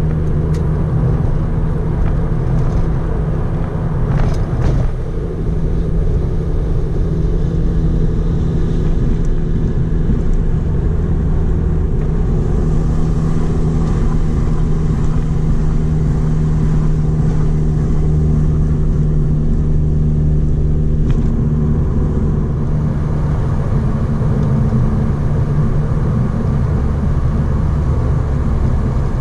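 Mitsubishi Lancer Evolution IV's turbocharged 4G63 four-cylinder engine droning steadily at highway cruising speed, heard from inside the cabin, with tyre and road rumble beneath.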